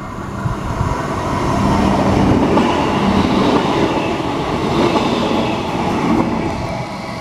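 Queensland Rail Suburban Multiple Unit electric train passing close by at speed, its wheels running on the rails as the carriages go past. The noise builds over the first couple of seconds as the train arrives, then holds steady.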